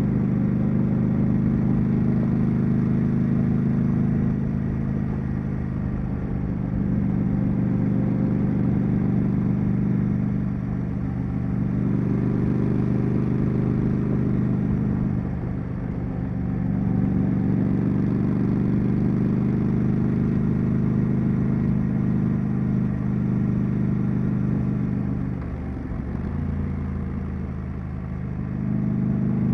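Triumph Street Scrambler's 900 cc parallel-twin engine and exhaust on the move, holding a steady note that drops briefly several times: about 5, 11 and 16 seconds in, and for longer near the end.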